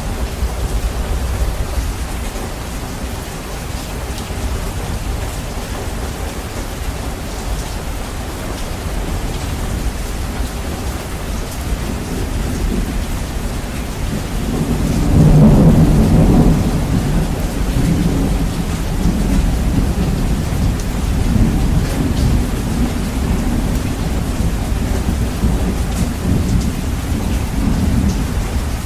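Heavy rain with a deep, bass-boosted rumble, and a roll of thunder that swells about halfway through, then rumbles on more softly.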